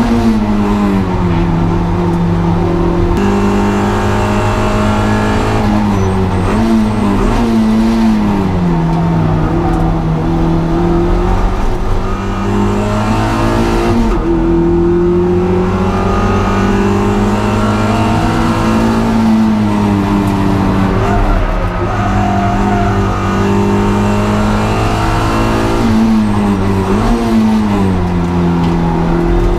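Honda Integra DC2's four-cylinder engine under hard driving on a race circuit, accelerating and lifting off repeatedly, its pitch rising and falling several times.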